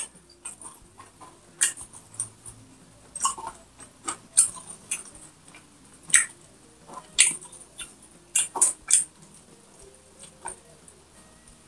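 Close-miked eating sounds: chewing with lip smacks, irregular sharp wet clicks and smacks about once a second.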